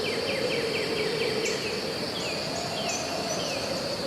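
Forest ambience: a steady high insect drone, with a quick run of short falling chirps at the start and a few more near the middle, over a low wavering hum.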